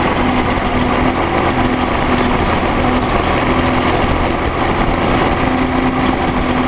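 Datsun 280Z's L28 fuel-injected straight-six idling steadily after a cold start, sounding pretty smooth with no misfire now that a replacement fuel injector is fitted in place of a lean-running one.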